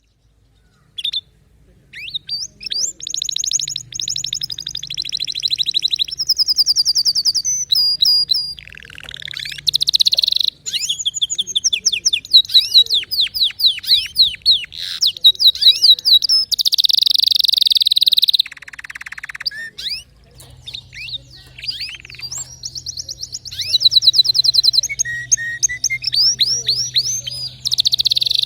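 Domestic canary singing a long, varied song of fast trills and rolls, rapidly repeated high notes changing from phrase to phrase with only brief pauses. The song starts about a second in.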